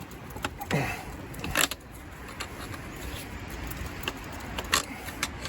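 Several sharp metallic clinks and knocks of tools and parts handled on a Case 188D diesel engine's connecting-rod caps and bearings during teardown, the loudest about a second and a half in and again near the end, over a low steady rumble.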